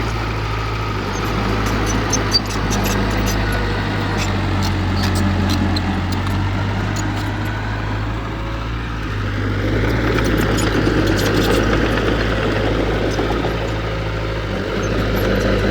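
Diesel engine of heavy earthmoving machinery running steadily, with faint scattered clanks and one sharp knock about two seconds in.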